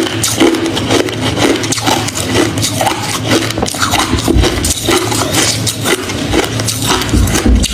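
Hard crushed ice and shaved ice chunks being chewed close to the microphone: continuous dense, crunchy cracking with no pauses.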